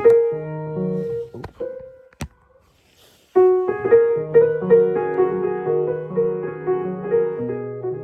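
A piano being played to try it out. A chord rings for about a second and a half, there is a single knock, then a short pause. From about three and a half seconds in, a steady run of chords and melody follows.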